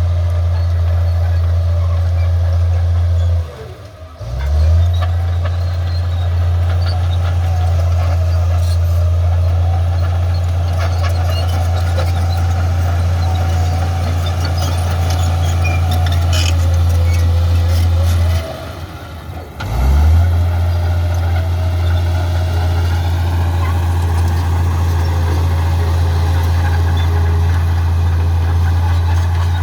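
Komatsu D85 bulldozer's diesel engine running as the machine works, a steady low drone with a wavering higher tone that rises and falls with the load. The sound drops away sharply twice, about four seconds in and again near nineteen seconds, each time returning within a second or so.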